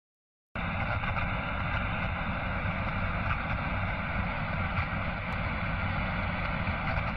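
A steady, dense rumbling drone of noise that starts abruptly about half a second in and holds unchanged.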